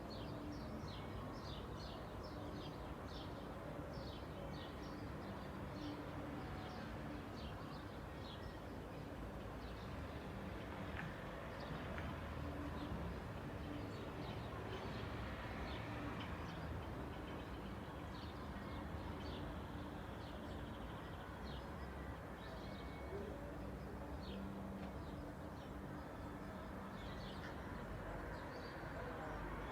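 Small birds chirping in many quick, short calls, densest in the first several seconds and sparser after, over a steady hum of traffic.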